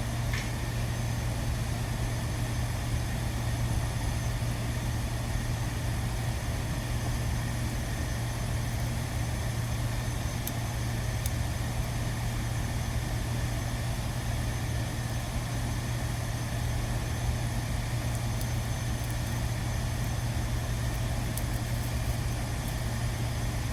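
A steady low machine drone, like an engine idling, running unchanged throughout.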